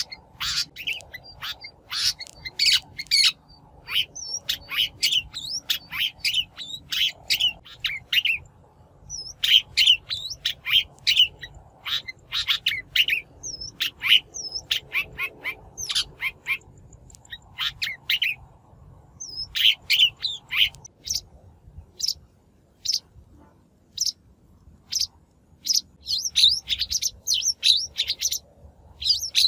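Shrike giving its lure call: rapid runs of short, harsh chattering notes in bursts with brief pauses. This is the kind of recording played to call wild shrikes in for trapping or to train a caged bird's voice.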